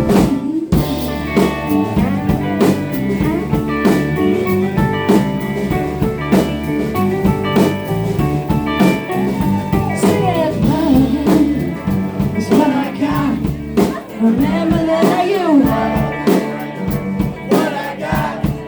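Live blues-rock band playing: drum kit, electric guitars and bass, with bending lead lines over the groove.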